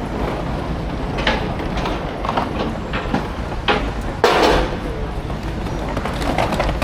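Busy railway station ambience: a steady low rumble with scattered knocks and clacks, and a louder rush of noise about four seconds in.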